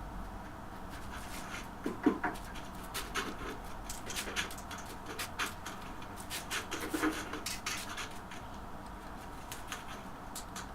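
Irregular light scraping and clicking of hand work on porcelain stoneware tile, with a couple of small knocks about two seconds in and again about seven seconds in.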